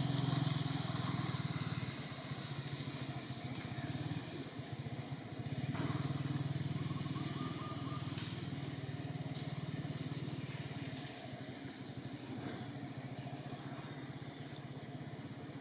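A small engine running steadily with a low, fast-pulsing hum.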